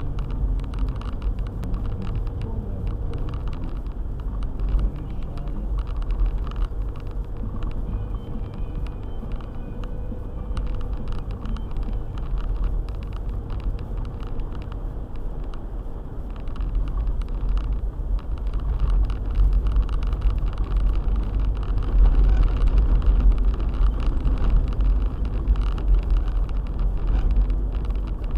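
Four-wheel-drive car driving, a steady low rumble of engine and tyres that grows louder about two-thirds of the way through.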